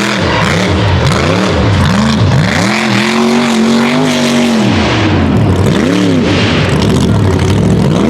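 Unlimited-class mega truck engine revving hard, its pitch rising and falling in quick swells, held high for about a second and a half some three seconds in.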